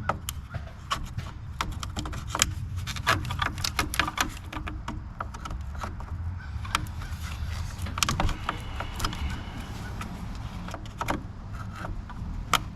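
Irregular clicks, taps and rattles of a clipped-on plastic front-end part on a Ford Edge being worked and pried loose, over a steady low hum.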